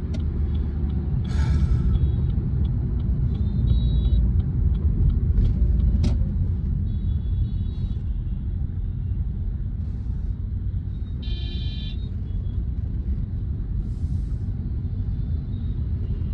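Car's engine and road noise heard from inside the cabin: a steady low rumble while driving in slow city traffic. Short horn beeps from surrounding traffic cut through it, the clearest lasting about a second at around eleven seconds in.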